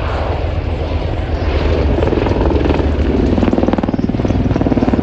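Helicopter flying close, its rotor blades chopping in a fast steady pulse that grows louder, with the pitch dropping in the second half as it passes.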